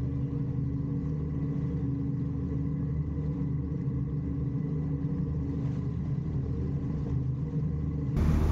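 Sailboat's inboard engine running steadily under way: a low, even drone.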